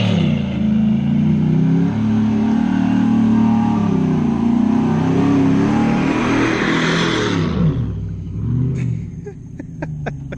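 Truck engine revving, its pitch rising and falling, with a loud rushing noise over it. It dies down about three-quarters of the way through, leaving a few sharp clicks.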